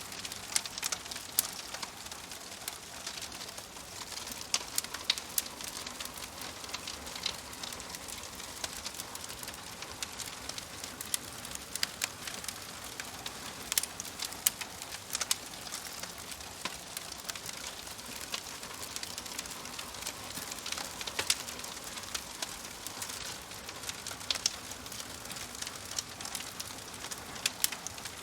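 Wood fire crackling: a soft steady hiss with frequent irregular sharp pops and snaps.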